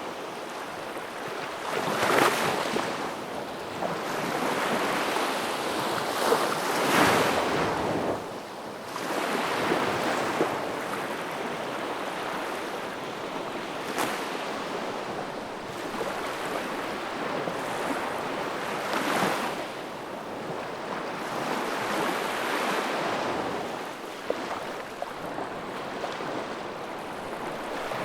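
Wood fire burning in a fireplace: a steady rushing hiss of flames that swells and ebbs every few seconds, with a few sharp crackles and pops from the burning wood.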